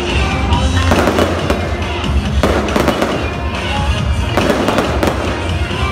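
Aerial fireworks going off in quick succession, a steady run of low bangs and crackles, with music playing underneath.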